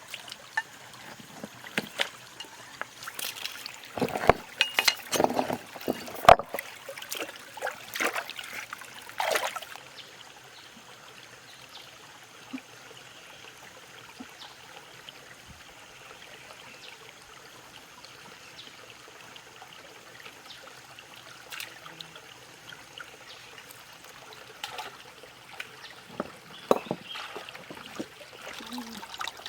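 Water splashing and trickling in shallow water: a run of sharp splashes and knocks over the first ten seconds, then a soft, steady trickle, with a few more splashes near the end.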